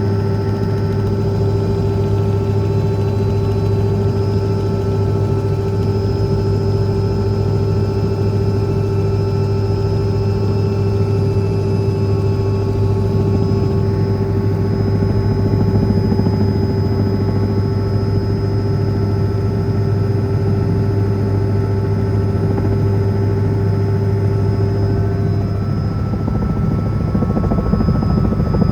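Helicopter running steadily: a constant, unbroken drone with steady tones, its pitch shifting slightly a few seconds before the end.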